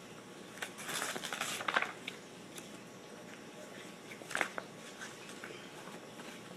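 Rustling and handling of the paper pages of a poster book, in a crackly spell about a second in and a shorter one a little past four seconds, with a few faint ticks between.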